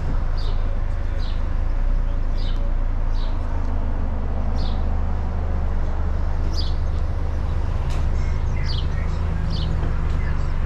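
A small bird chirps repeatedly, in short high notes about once a second, over a steady low rumble.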